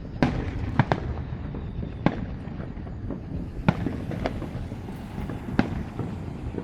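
Aerial fireworks shells bursting: about six sharp bangs spread unevenly through the moment, over a continuous low rumble.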